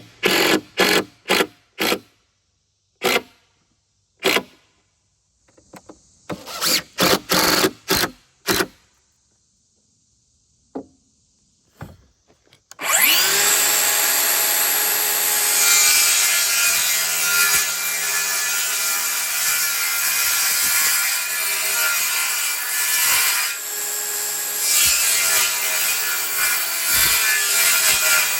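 A run of sharp, separate knocks on wood. About thirteen seconds in, an electric power tool spins up and then runs steadily on wood.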